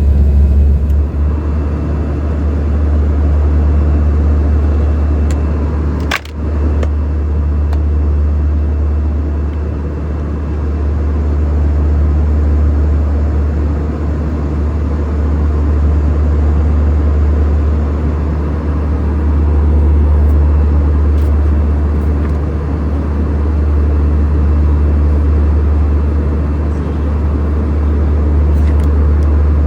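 Steady low drone of an Airbus A320-214 cabin, engine and airflow noise heard from a passenger seat, with a single sharp click about six seconds in.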